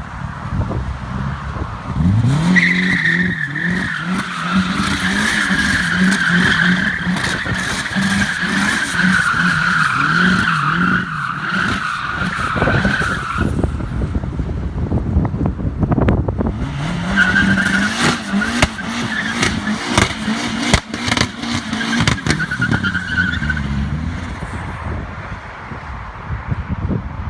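Opel Omega A's modified C20LET turbocharged four-cylinder engine revving up hard and held at high revs, with a high squeal over it that falls slightly in pitch. It happens twice: from about two seconds in for some eleven seconds, then again for about six seconds near the end.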